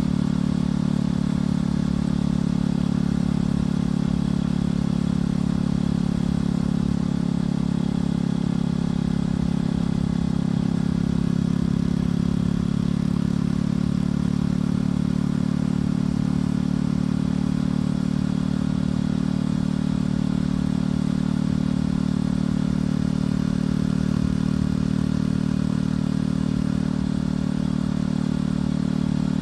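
Motorcycle engine and exhaust running at a steady cruising speed, with a low, rough rumble of wind and road noise underneath.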